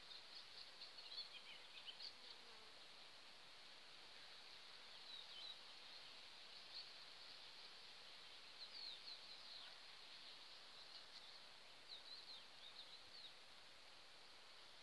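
Faint outdoor nature ambience: a steady high insect buzz, with scattered short bird chirps now and then.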